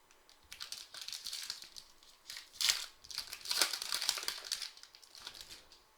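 Crinkling and rustling as trading cards and their foil pack wrapper are handled, in several short bursts with the loudest a little past the middle.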